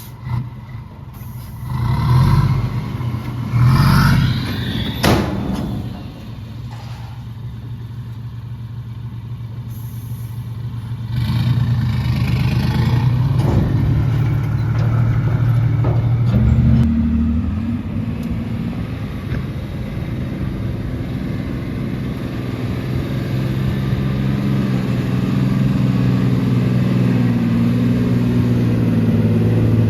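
Heavy diesel machinery engines running and revving at an earth-moving site, with loud surges in the first few seconds and a sharp knock about five seconds in. From about eleven seconds in, a heavier engine note holds steady and changes pitch now and then.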